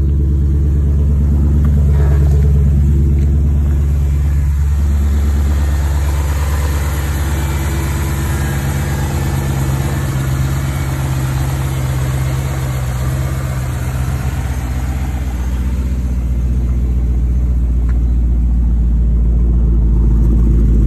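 BMW E39 M5's 4.9-litre S62 V8 idling steadily on a fast cold idle, shortly after a cold start. It is heard from the cabin, then under the open hood, then at the quad tailpipes, and grows louder near the end.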